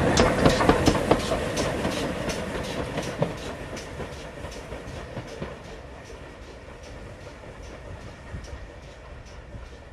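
A train running past and moving away, its wheels clicking steadily over the rail joints, fading gradually.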